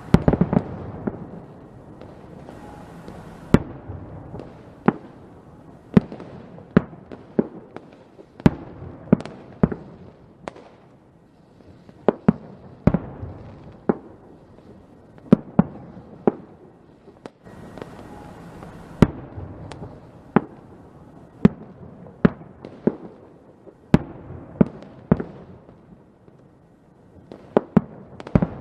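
Fireworks going off: a string of sharp bangs and pops, often several a second, over crackling. There is a flurry of bangs near the start and a short lull about halfway through.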